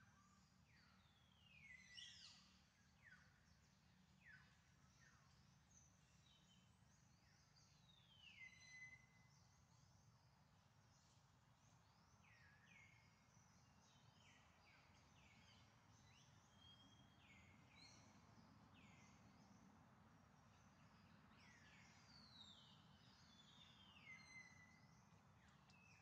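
Very faint outdoor ambience with distant bird calls: short high whistles that fall sharply in pitch, coming in a few scattered clusters.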